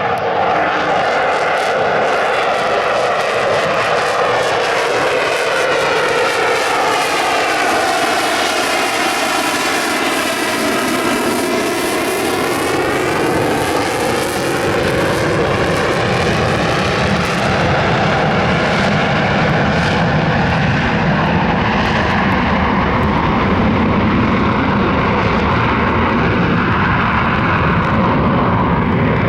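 F-35A Lightning II's jet engine, loud and continuous, as the fighter makes a pass overhead. The sound sweeps in tone as it goes by about ten to twelve seconds in, then turns deeper and heavier as it moves away.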